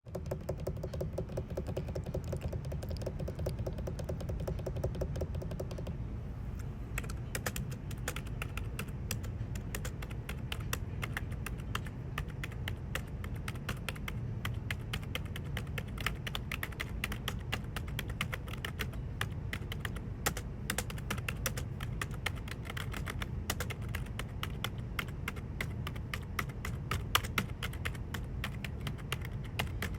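Fast typing on a computer keyboard, a dense run of key clicks that becomes brighter and busier about six seconds in.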